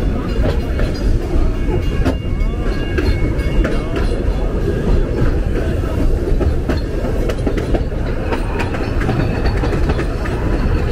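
Puffing Billy narrow-gauge heritage train rolling along the track, heard from aboard: a steady rumble with irregular clicks of the wheels over the rails and a few short high wheel squeals.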